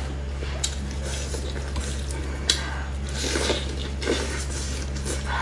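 Close-up wet chewing and biting into soft braised meat, with mouth clicks and squishy sucking sounds, a sharp click about two and a half seconds in. A steady low hum runs underneath.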